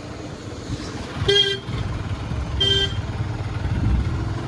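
A vehicle horn honks twice, two short toots about a second and a half apart, over the low, steady rumble of running engines.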